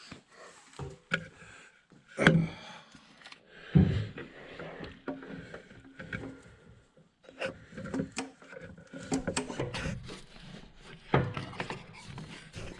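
Hands working on a truck's engine bay: irregular knocks, clicks and rubbing of parts being handled and fitted, with two sharp thumps about two and four seconds in and another near the end.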